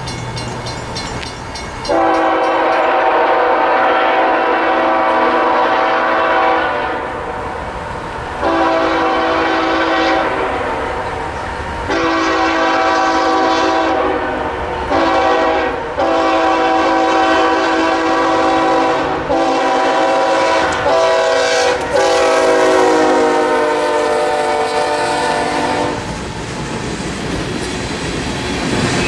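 Freight locomotive's air horn sounding a series of long and short blasts, its pitch dropping near the end as it passes, over the rumble and clatter of the train on the rails.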